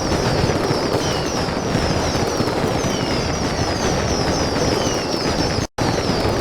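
Fireworks going off in a dense, continuous rapid crackle and popping, with short high falling whistles repeating over it. The sound cuts out abruptly for an instant near the end and then resumes.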